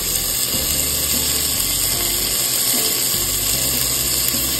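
Onion, tomato and spice masala frying in an aluminium pressure cooker as chopped spinach goes in, with a steady sizzle and a steel spoon stirring and scraping against the pot.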